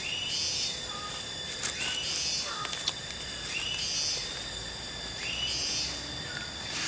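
A bird repeating the same short two-part call about every second and a half to two seconds, over a steady high insect drone. Two sharp clicks come near the middle.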